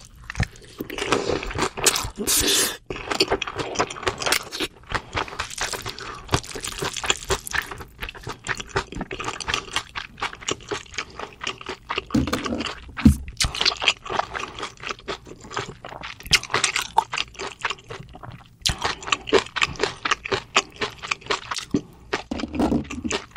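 Close-miked wet chewing and mouth smacking through a big mouthful of bibimbap with chewy whelk, the sounds coming as many irregular small clicks and squelches.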